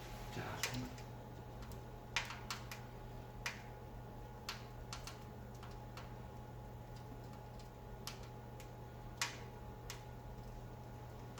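Wood fire crackling in a boiler fireplace: scattered, irregular sharp pops and ticks over a steady low hum from the hot-water circulation pump motor, which is still running.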